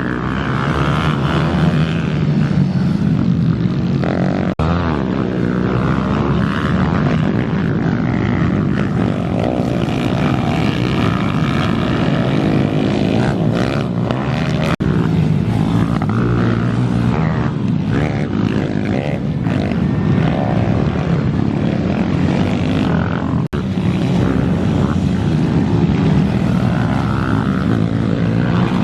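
Pit bike engines running hard during a race, revving up and down continuously as the bikes accelerate and shift, with three very short breaks in the sound.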